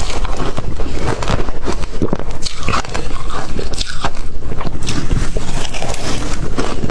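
Close-miked chewing of crunchy ice: a rapid, irregular run of loud crunches and cracks as the ice is bitten and ground between the teeth.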